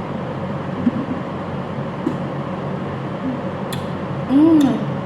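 Steady mechanical hum, like a running fan, with a few light clicks. Near the end comes a brief tone that rises and then falls.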